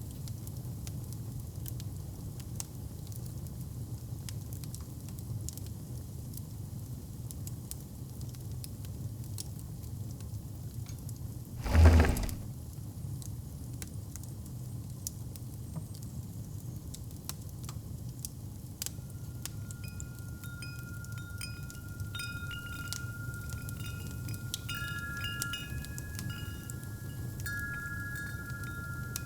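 Fire crackling in a fireplace over a low steady rumble, with a single heavy thump about halfway through. Wind chimes start ringing past the middle, several tones overlapping.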